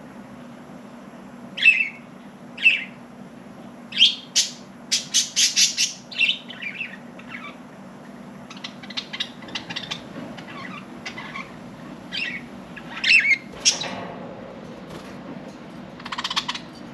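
Budgerigars chirping and squawking in short, sharp calls, with a quick run of chirps about five seconds in and softer chattering after it, over a steady low hum.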